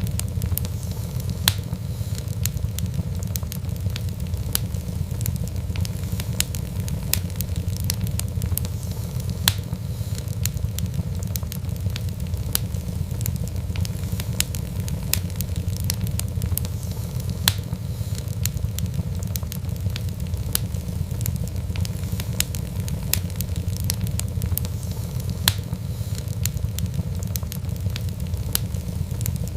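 Fireplace fire crackling and popping: many sharp snaps, a few louder than the rest, over a steady low rumble of flame.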